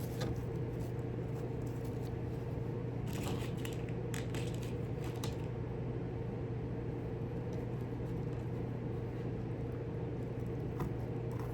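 A steady machine hum with a low and a middle tone, and a few faint clicks and rustles from small hardware being handled and pressed into a model overpass, mostly between about three and five seconds in.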